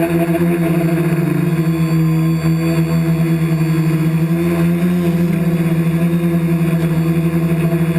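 Remote-control helicopter's motor and rotor running steadily, a loud, even drone with a nearly constant pitch.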